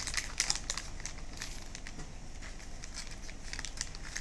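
Irregular rustling and crackling: a dense run of small, uneven clicks.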